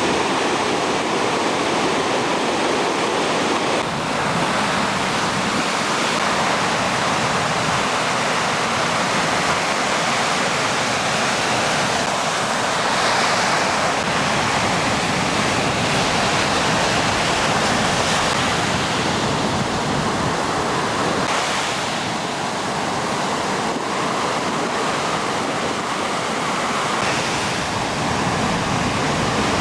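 Ocean surf rushing steadily.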